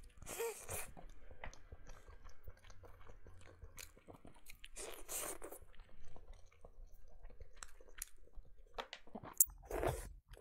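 Close-up chewing and biting of glazed fried chicken wings: a run of small wet mouth clicks, with louder bites about half a second in and again around five seconds.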